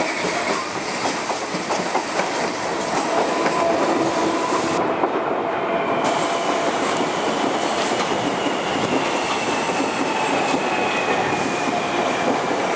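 CPTM 5500 series electric train pulling away over the station points: a steady rumble of wheels on rail, clickety-clack over the joints and switches, and faint drawn-out wheel squeal.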